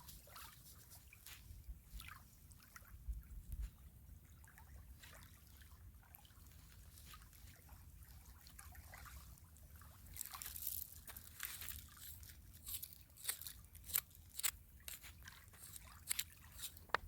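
River water lapping and trickling at the shoreline: faint, irregular small splashes and drips, coming more often in the second half.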